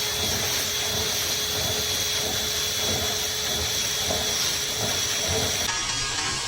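Dryer vent cleaning equipment running: an electric motor whining steadily over a hiss of rushing air. The high part of the hiss drops away about six seconds in.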